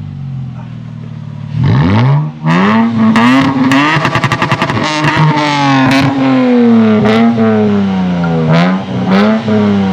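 Lexus IS200 straight-six with its rear muffler removed (straight-piped, catalytic converter still in place), going from idle into a series of sharp revs that rise and fall repeatedly. About four seconds in there is a rapid stuttering burst.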